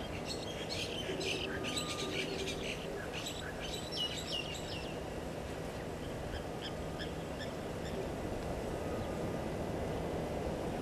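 Birds calling and chirping: a busy run of short, high calls for about the first five seconds, then sparser, fainter chirps, over a steady low background noise.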